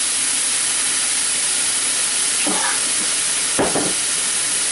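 Onion, garlic and chili sauces sizzling in olive oil in a hot skillet, a steady hiss. A short click, like a utensil against the pan, comes about three and a half seconds in.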